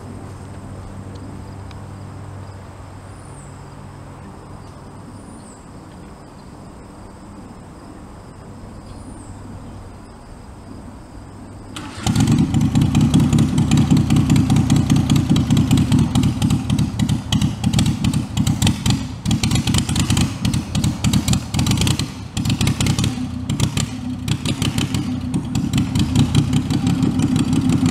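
Homemade tractor's engine: a steady low hum for about the first twelve seconds, then suddenly much louder running with a rapid pulsing beat that rises and falls in level through the rest.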